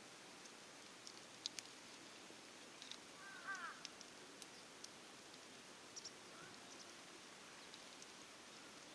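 Faint sporadic snaps and crackles of burning firewood in a campfire, with a short bird chirp about three and a half seconds in and a fainter one near six seconds.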